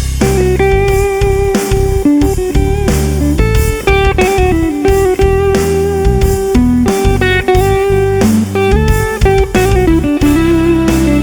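Electric guitar playing held, sustained lead notes with a steady rhythm of picked attacks.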